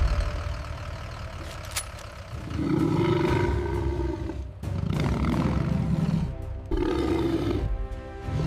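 Lions roaring: three long roars follow one another, starting a few seconds in, over background music.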